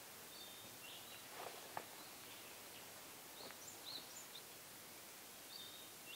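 Faint, scattered chirps of small birds over a quiet background hiss, with two soft knocks about a second and a half in.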